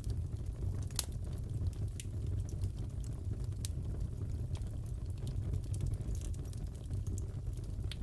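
Wood fire crackling in a fireplace: a steady low rumble with irregular sharp pops and crackles, the sharpest about a second in.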